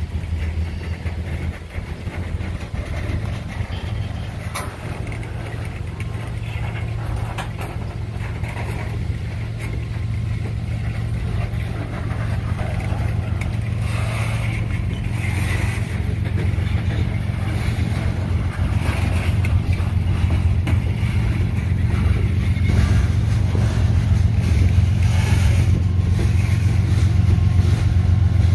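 Slow-moving freight train rolling past: the steel wheels of boxcars and covered hoppers rumble and clack on the rails, with a few short clanks. A low steady drone grows gradually louder toward the end.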